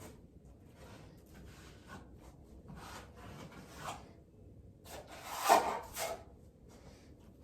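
8-inch drywall knife scraping and spreading joint compound, a second coat over taped drywall seams, in several uneven strokes; the loudest stroke comes about five and a half seconds in.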